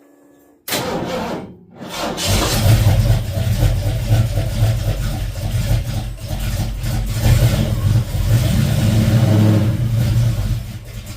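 1972 Ford Mustang Mach 1 V8, freshly fitted with a Crane hydraulic roller cam, starting up for its first run after the rebuild: it fires about a second in, falters briefly, then catches and keeps running, its level rising and falling. Exhaust is a single 3-inch pipe with a Black Widow Race Venom muffler.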